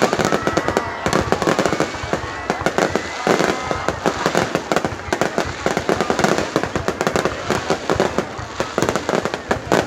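Fireworks display going off continuously: a dense, rapid run of bangs and crackles with no break.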